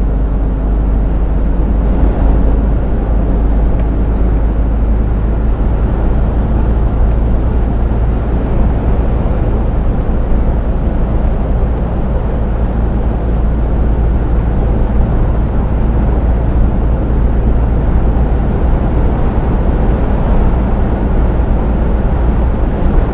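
Steady low rumble of a heavy truck cruising on a motorway, engine and road noise heard from the cab.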